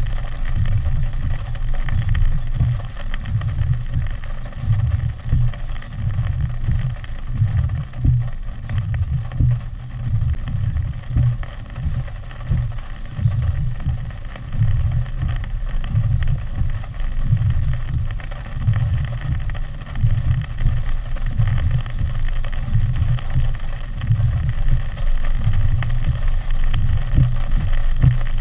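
Storm wind buffeting the microphone: a low rumble that keeps surging and fading, over a steady hiss.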